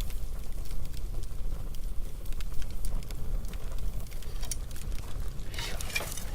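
Wood bonfire crackling and popping: irregular sharp snaps over a steady low rumble, growing denser near the end.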